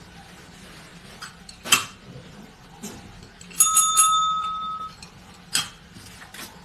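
A small bell rings once, about halfway through, its clear metallic tone fading out over about a second. A couple of soft knocks come before and after it.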